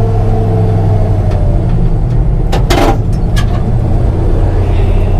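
An old combine's engine running steadily, with a short noisy clatter about two and a half seconds in and a smaller click shortly after.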